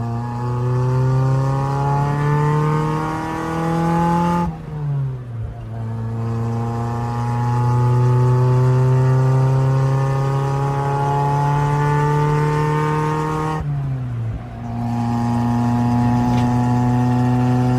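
Honda Civic EG's four-cylinder engine under hard acceleration, revs climbing slowly through each gear and shifted at about 5,000 rpm. The revs drop at a gear change about four and a half seconds in and again about fourteen seconds in, then climb once more. The slow climb comes from the load of the car it is towing.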